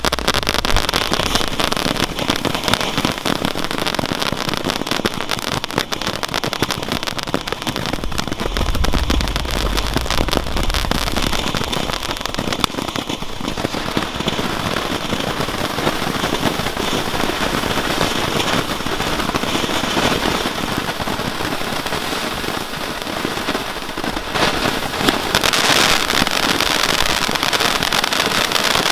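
Ground-effect fireworks, spinners and a fountain, hissing and crackling continuously as they spray sparks. The sound grows louder near the end.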